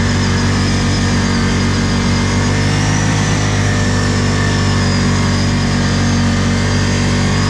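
ATV engine running at steady revs, a faint high whine riding above it.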